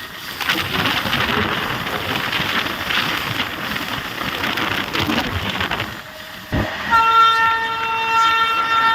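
Goods train running along the track with a steady rumble and wheel rattle; about seven seconds in, after a short thump, a locomotive horn starts one long steady blast that carries on to the end.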